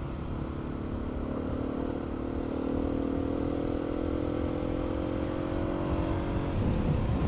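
Adventure motorcycle engine running under way on a rough dirt track, its note rising slowly, then changing near the end as the throttle or gear changes, with a low rumble underneath.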